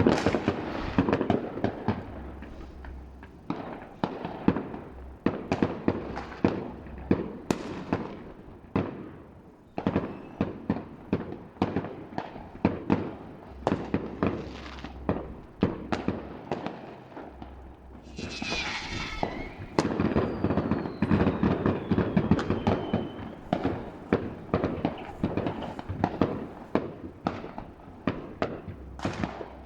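New Year's Eve fireworks heard from a distance: a continuous barrage of bangs and firecracker pops. About two-thirds through comes a burst of crackling, followed by a whistle that falls in pitch.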